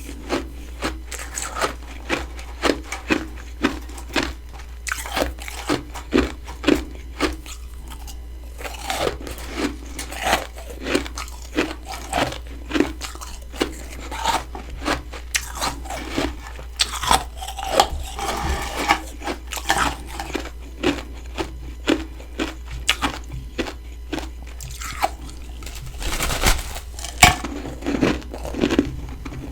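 Close-miked biting and chewing of hard freezer frost, a steady run of crisp crunches about one or two a second, with a denser crackling stretch about two-thirds of the way through.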